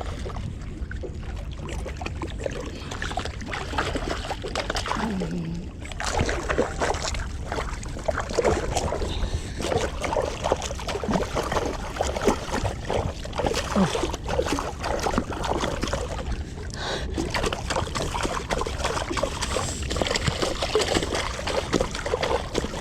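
Water splashing and sloshing, busy and irregular from about six seconds in, from a hooked milkfish thrashing at the surface as it is played in. A steady low rumble of wind on the microphone runs underneath.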